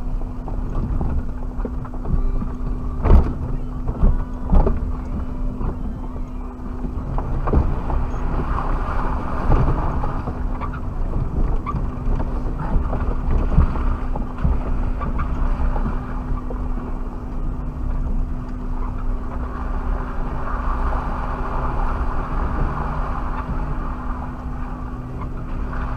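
Suzuki Jimny driving off-road, heard from inside through a dashcam: steady engine and drivetrain rumble with a constant hum, and a few sharp knocks from the bodywork and suspension about three to five seconds in.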